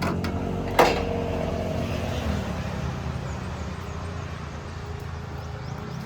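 A single sharp metal clang about a second in, ringing briefly, over the steady low hum of an idling engine.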